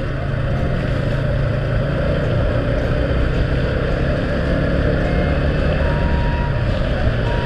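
A vehicle engine running steadily, mixed with wind and rain noise on the microphone.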